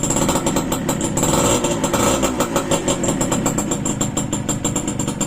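Rebuilt motorcycle's small single-cylinder engine running just after starting, with fast, even firing pulses, rising slightly about a second in and then settling back to a steady idle.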